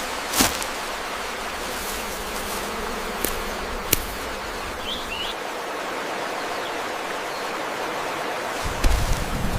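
Steady rush of flowing water, with a few sharp clicks, a brief high chirp about halfway through and a low rumble near the end.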